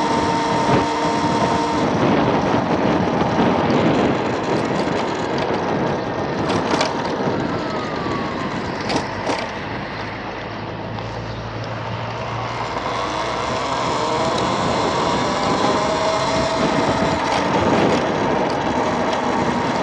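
Wind noise on the microphone while riding an MX Sting electric motor scooter at road speed, with a thin steady whine that fades out early and comes back shifting in pitch in the second half, and a few brief knocks near the middle.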